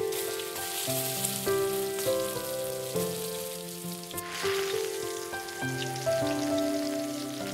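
Chopped onion and garlic sizzling in hot butter and oil in a nonstick pan, with a brief louder hiss about four seconds in as tomato puree is poured into the hot fat. Background music with sustained notes plays throughout.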